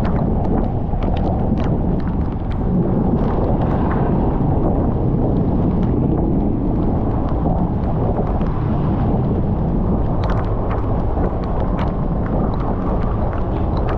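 Wind buffeting the microphone of a moving motorcycle, a loud steady low rumble, with scattered sharp ticks of raindrops striking.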